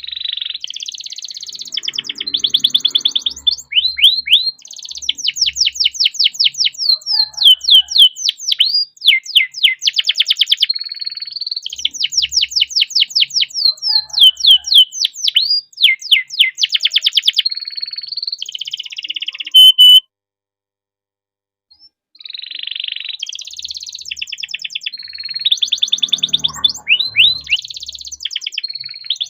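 Domestic canary singing a long, rolling song of fast trills and rapidly repeated downward-sweeping notes, rising and falling in loudness. It breaks off for about two seconds after twenty seconds or so, then starts again.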